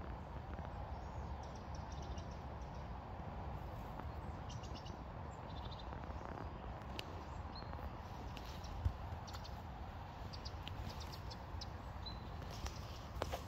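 Outdoor ambience: small birds give short, high chirps now and then over a steady low rumble, with a single sharp knock about nine seconds in.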